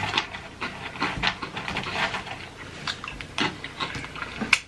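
Close-up chewing of crunchy snack chips: irregular crisp crunches and small mouth clicks, several a second.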